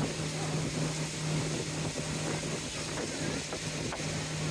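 Tour boat's engine running steadily with a constant low hum.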